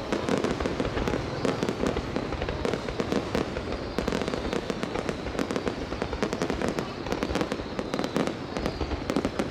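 Aerial fireworks going off in quick succession: a continuous stream of bangs and crackles.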